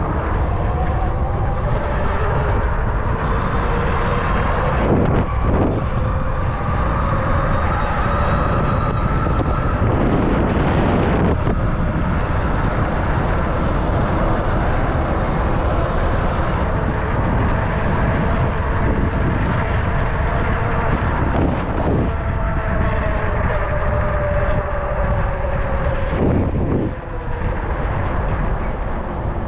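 Wind rushing over the microphone on a moving e-bike, with the electric motor's whine gliding up and down in pitch as the speed changes. A few short knocks, such as bumps in the path, come through about five, eleven, twenty-two and twenty-seven seconds in.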